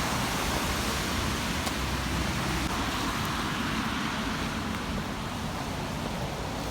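Steady wash of outdoor street noise in the rain, with road traffic.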